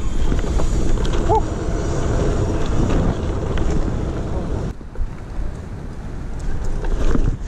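Wind buffeting an action camera's microphone while riding a BMX bike, with rolling street noise underneath. It eases off about five seconds in and picks up again near the end, with a brief squeak about a second in.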